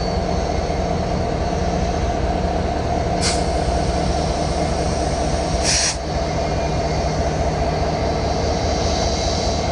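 A train rolling by with a steady, loud rumble. There are two short bursts of noise, about three and six seconds in.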